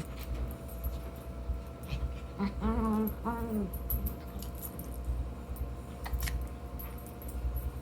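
A puppy whimpering: two short, high whines close together about three seconds in, over a steady low hum.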